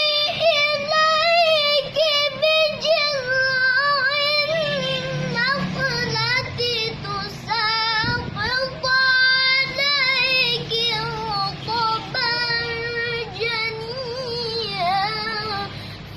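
A boy's high voice in melodic Quran recitation (tilawah), drawing out long held notes with quick wavering ornaments. The melody sinks slowly in pitch over the first few seconds, then rises and falls again in short phrases.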